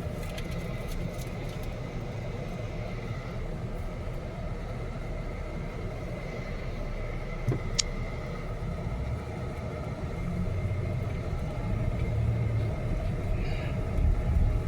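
Car driving, heard from inside the cabin: steady low road and engine rumble. A single sharp click comes about halfway through, and the rumble grows louder near the end.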